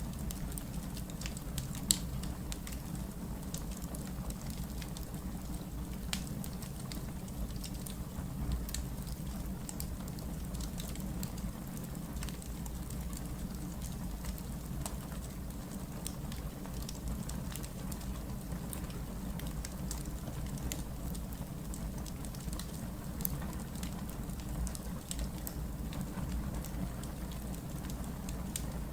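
Wood fire burning with a steady low rumble and frequent small crackles and snaps, with one sharper pop about two seconds in.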